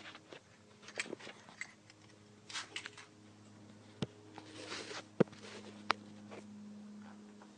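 Faint clicks and short rustles, like handling noise, over a low steady hum.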